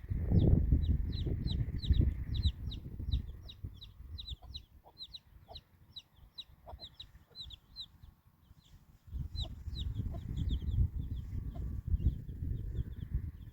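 Birds chirping in a rapid, continuous run of short high-pitched chirps. A low rumbling noise comes in at the start, fades after about three seconds and returns about nine seconds in.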